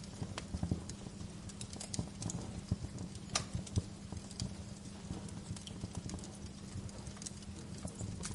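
Wood fire crackling, with irregular sharp pops and snaps of varying loudness over a soft steady hiss and a low even hum.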